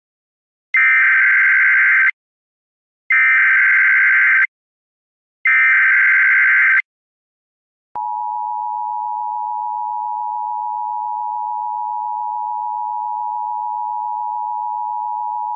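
US Emergency Alert System tones. Three bursts of buzzy digital SAME header data, each about a second and a half long and spaced about a second apart, are followed by the steady two-tone EAS attention signal (853 and 960 Hz), which starts about eight seconds in.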